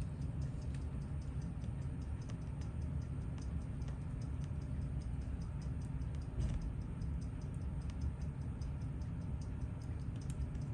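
Rapid, even ticking of a timepiece, several ticks a second, over a steady low hum, with one louder knock about two-thirds of the way through.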